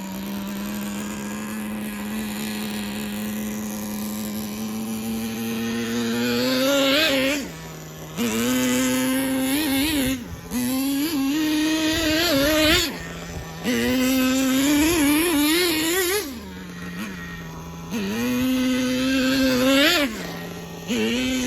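Small nitro glow engine of a 1/10-scale RC trophy truck idling steadily for about six seconds. It is then revved in a series of throttle blips, each rising and wavering for a second or two before falling back to idle.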